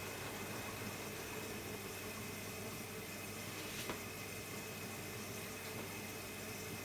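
Hotpoint-Ariston Aqualtis washer-dryer running: a steady rush of water with a low hum, and a single click about four seconds in.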